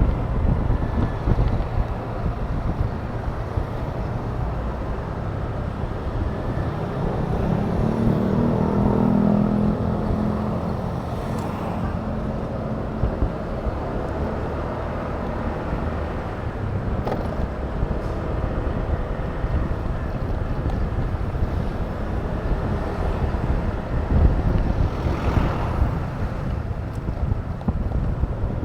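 Riding on a Honda Click 125 scooter: wind rushes over the microphone and the small single-cylinder engine drones. About seven seconds in, an engine note rises as the scooter speeds up, and it holds for a few seconds.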